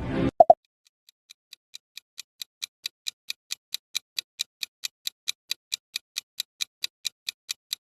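Two short beeps, then a clock-style ticking sound effect, about four to five ticks a second, fading in and then holding steady: the countdown timer of the quiz while viewers guess.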